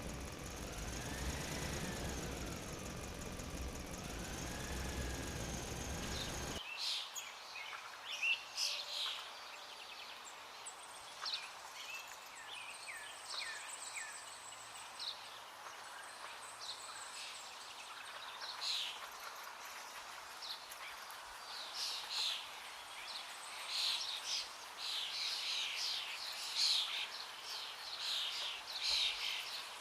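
Small birds chirping and twittering many times over a faint steady hiss. For the first six seconds or so a louder steady noise with a tone wavering slowly up and down covers them, then cuts off suddenly.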